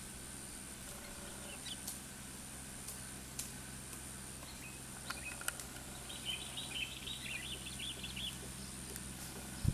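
A small bird twittering in a quick run of chirps for about two seconds past the middle, over a steady low hum, with a few faint clicks and a thin high whistle coming and going.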